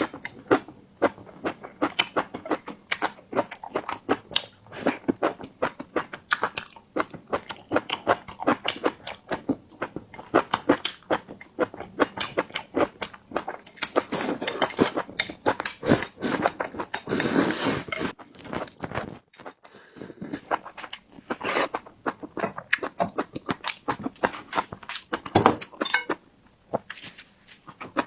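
Close-miked eating sounds: chewing and mouth noises in quick, irregular clicks and smacks, with a longer, noisier stretch about two-thirds of the way through.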